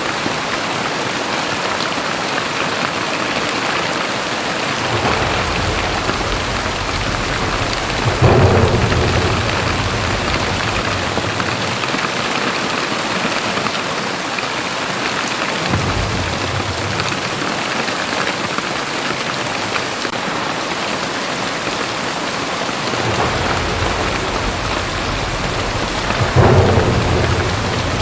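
Heavy rain falling steadily, with low rumbles of thunder coming and going three times. The rumbles are loudest about eight seconds in and again near the end.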